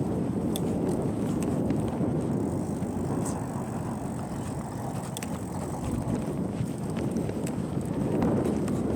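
Steady low noise of a bicycle ride: tyres rolling on pavement, with a few faint clicks.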